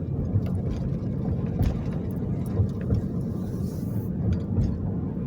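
Steady low rumble of road and engine noise heard inside a moving car's cabin, with a few faint ticks.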